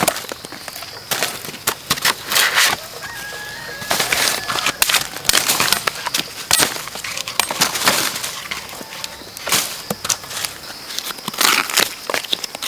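Repeated sharp crackling and snapping of dry plant material being handled, with a chicken calling faintly in the background.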